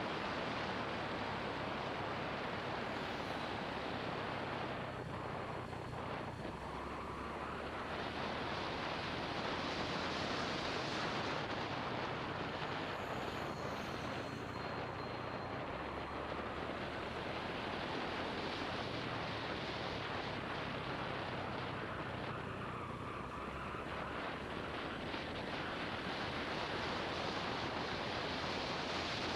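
Wind rushing over an action camera's microphone on a moving motorbike, with the motorbike's engine running low underneath, its note stepping up and down a few times.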